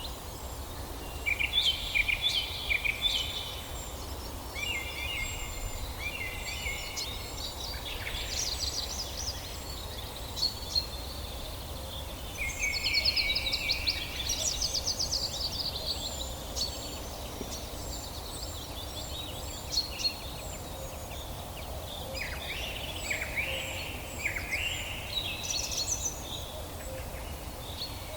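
Several songbirds singing in a forest, with trilled phrases and quick runs of notes, loudest about two seconds in and again about halfway. A thin, high call repeats steadily throughout. A low, even background rumble sits underneath.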